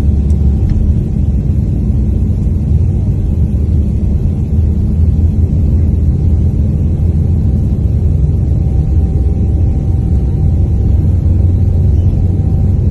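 Boeing 777 jet engine and airflow noise heard from inside the passenger cabin: a steady, loud low rumble with a faint steady whine above it.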